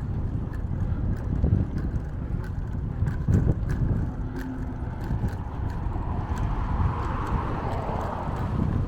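Wind buffeting the microphone of a camera on a moving bicycle, a heavy uneven rumble with scattered light clicks and rattles. From about six seconds in a hiss swells up and fades near the end.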